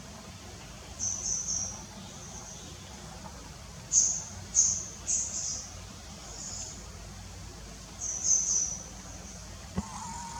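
Small birds chirping in short, high bursts, several times, over a steady low rumble of background noise. A single knock sounds near the end.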